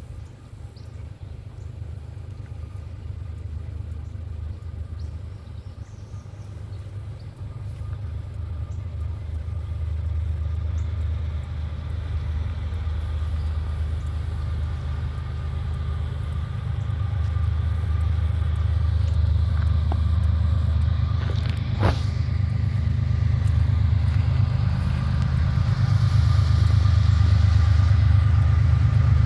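Approaching freight train's diesel locomotives: a low engine rumble that grows steadily louder, with a faint steady whine over it in the second half and a single sharp click near the end.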